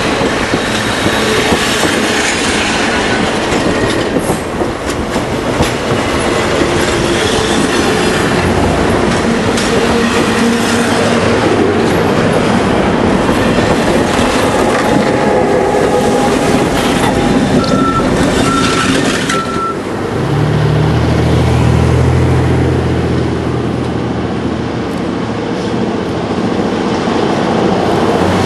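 A passenger train rolling by, with steady wheel-on-rail noise, clickety-clack over the rail joints and some wheel squeal. About twenty seconds in, a deep steady engine hum joins, as of a diesel locomotive passing.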